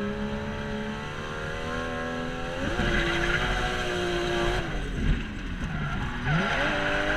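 Toyota Chaser JZX90's straight-six engine heard from inside the cabin while drifting. The revs hold steady, climb sharply about three seconds in with the tyres squealing, fall away about a second and a half later, then climb again with more tyre squeal near the end.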